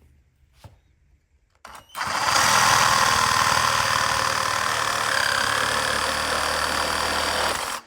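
Ingco 20V cordless mini reciprocating saw cutting into a wooden pallet. It starts about two seconds in, runs loud and steady for about six seconds, then stops abruptly.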